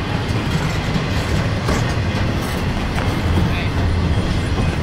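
Intermodal freight train's container well cars rolling past: a steady low rumble of wheels on rail, with a few sharp clicks as the wheels pass over rail joints.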